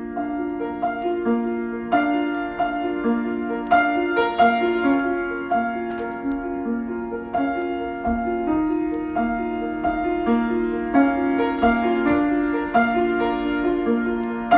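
Solo piano improvisation: notes and chords struck one after another at an unhurried pace and left to ring, mostly in the middle of the keyboard.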